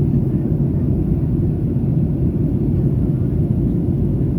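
Steady low rumble of a Boeing 737-800 in flight, heard inside the passenger cabin: the hum of its CFM56 engines mixed with airflow noise, unchanging throughout.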